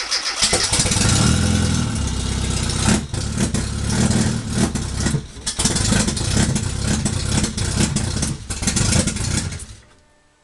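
Freshly rebuilt Austin Mini 1330 A-series four-cylinder engine running in the car and being revved up and down in repeated blips. It falls away to near silence just before the end.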